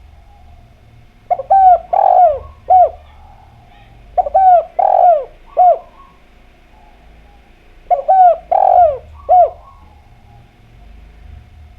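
Spotted dove (derkuku/tekukur) cooing: three phrases of about four coos each, each coo dropping in pitch, spaced three to four seconds apart. The last two seconds are quiet.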